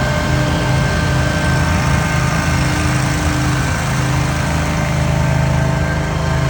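Small engine on outdoor power equipment running steadily at constant speed, with a hum and an airy rush.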